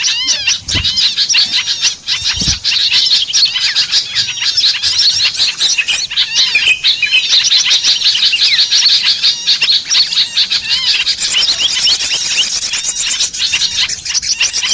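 Dense, continuous chirping and twittering of many small songbirds, quick high notes overlapping without pause: a bird-luring recording played to draw small birds in.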